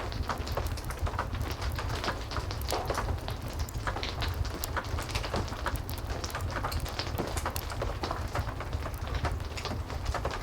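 Steady heavy rain with a low rumble underneath, dotted throughout with irregular sharp pops and crackles of a wood fire.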